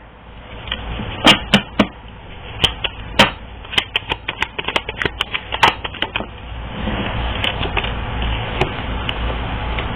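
Reading cards being shuffled and drawn by hand: a run of irregular sharp clicks and snaps of the cards, then a softer, steadier rustle over the last few seconds.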